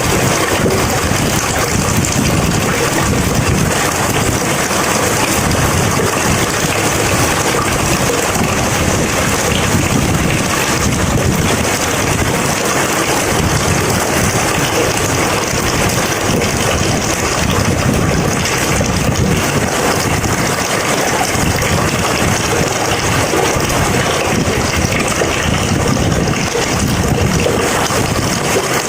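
Heavy rain pouring steadily: a loud, even rush of noise with no separate strikes.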